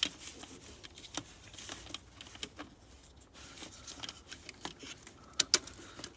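Hands working on alternator wiring and parts: scattered light clicks and rustles, with two sharp clicks close together about five and a half seconds in.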